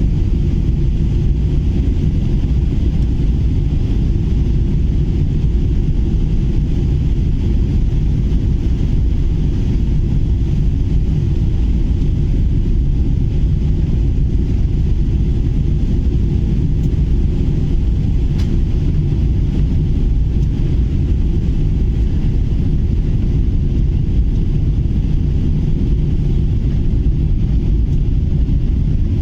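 Steady low rumble of a jet airliner heard from inside the cabin: engine and airflow noise, unchanging in level.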